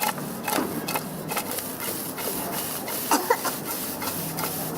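Food sizzling in a hot wok, a steady hiss, with clicks and scrapes of a metal spatula stirring it.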